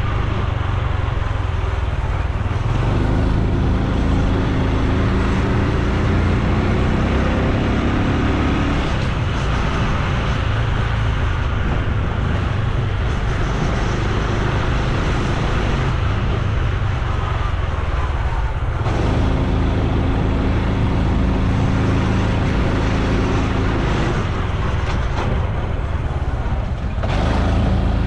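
Honda Super Cub C125's 125 cc single-cylinder four-stroke engine and exhaust while riding, with a steady low rumble of wind and road noise. The engine note fades and comes back several times as the rider eases off and opens the throttle.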